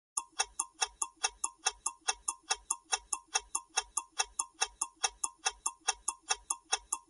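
Quiz countdown-timer sound effect: a clock-like ticking, about four to five evenly spaced ticks a second, counting down the seven seconds allowed for an answer.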